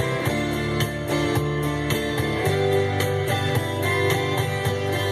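Country band playing an instrumental intro, guitars strummed in a steady rhythm.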